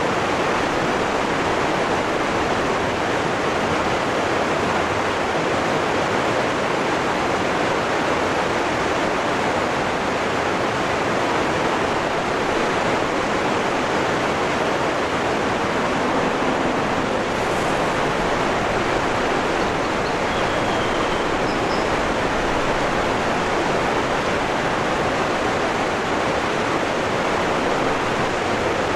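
Waterfall rushing: a steady, even roar of falling water with no break. A couple of faint short high tones come through about two-thirds of the way in.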